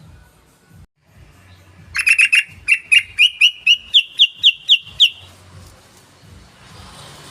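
Sooty-headed bulbul (trucukan) calling. About two seconds in comes a quick cluster of sharp notes, then an even run of about ten notes, about four a second, edging up in pitch. The phrase lasts about three seconds.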